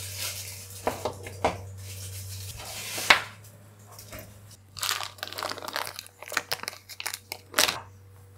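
Plastic packaging crinkling and crackling as a power supply and its coiled cable are unwrapped and handled, in irregular sharp crackles. The loudest crack comes about three seconds in, and a busy run of crackles follows from about five seconds.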